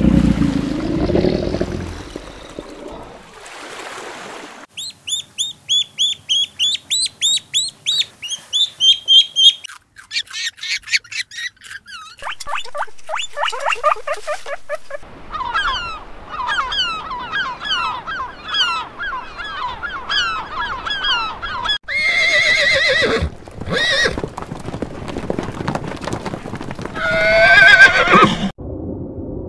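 A string of different animal calls with no speech: a low sound at the start, then fast runs of short, falling chirps and a long stretch of repeated calls through the middle. A horse whinnies loudly near the end.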